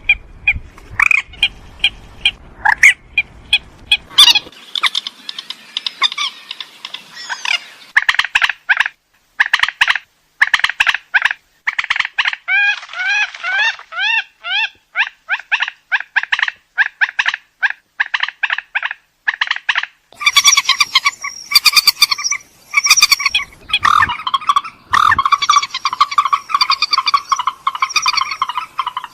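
Purple swamphen calling in quick runs of short, sharp notes. Around the middle comes a string of quick rising squeaks, and in the last third a denser, louder stretch of cackling calls.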